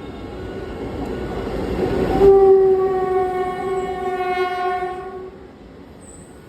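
A train rushing past at speed, its rumble building over the first two seconds, then a locomotive air horn sounding one long steady blast of about three seconds. Horn and rumble both cut off abruptly a little past the middle.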